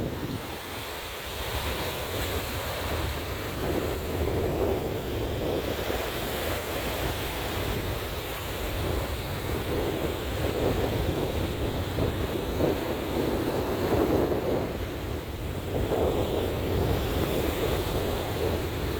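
Sea surf breaking and washing onto a beach, swelling and easing every few seconds, with wind rumbling on the microphone.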